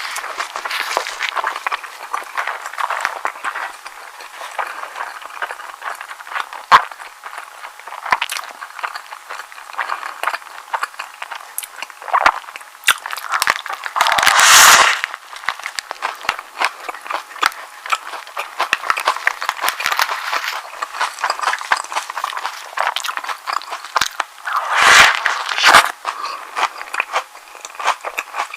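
Close-miked eating sounds: chewing and moist mouth clicks on a soft egg sandwich. Two louder, longer noises come about halfway through and near the end.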